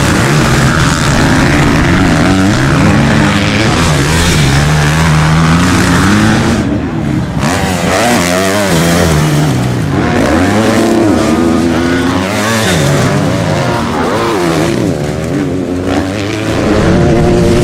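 Several motocross bikes racing, their engines revving up and falling back over and over, the pitches overlapping and shifting with throttle and gear changes.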